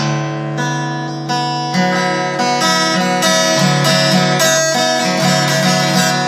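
Acoustic guitar being strummed and picked, with no singing. The strumming grows fuller and louder about two seconds in.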